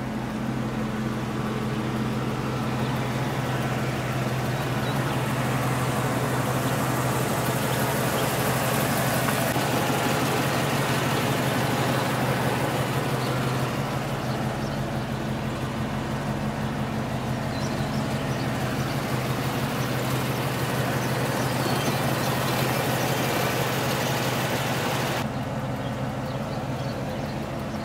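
Ramjet 350 small-block V8 idling steadily with a low, even hum. Over it a broad rushing hiss swells and then cuts off suddenly near the end.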